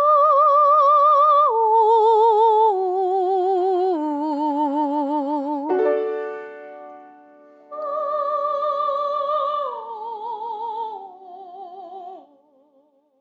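A high voice sings with wide vibrato in two descending phrases, each made of long held notes stepping down; a piano chord sounds between the phrases.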